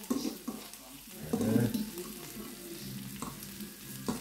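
Diced potatoes and breaded fish fingers sizzling steadily in frying pans while the potatoes are stirred with a utensil, with two sharp clicks of the utensil against the pan near the end.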